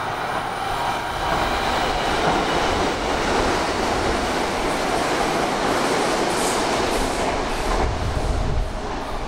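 Hanshin Railway electric train running on the track, a steady rumble of wheels and running gear with no let-up.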